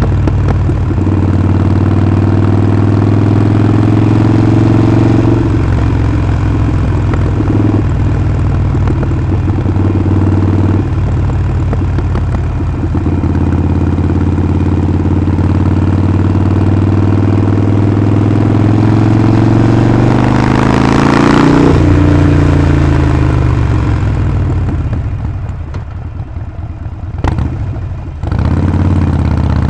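Harley-Davidson Sportster Forty-Eight's air-cooled 1200 cc V-twin running on the move, a steady engine note broken by a few gear changes. The pitch climbs as it accelerates about two-thirds through, then drops back as the throttle closes near the end.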